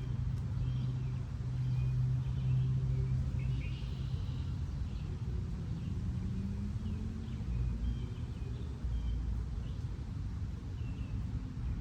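Low road-traffic rumble with a vehicle engine hum, over faint, scattered bird chirps.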